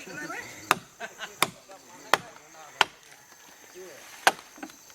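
A blade chopping into the cut end of a felled sugar palm (Arenga pinnata) trunk with sharp, short strokes, about five in all, paring off the old skin so fresh sap flows. Faint insects buzz steadily behind the strokes.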